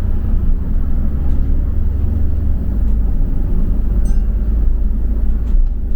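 Double-decker bus heard from inside while it drives: a steady low engine and road rumble, with a brief faint high squeak about four seconds in.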